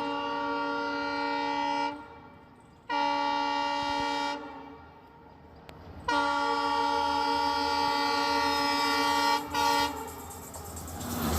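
Train locomotive horn sounding a series of steady blasts: one ending about two seconds in, one of about a second and a half, a long one of about three seconds, and a short toot. Near the end comes the rising rumble of the approaching train.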